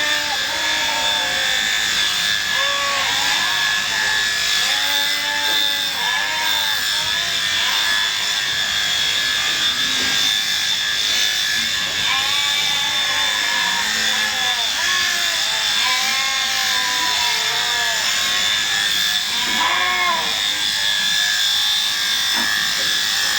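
Electric sheep shears running with a steady high whine while sheep bleat over and over.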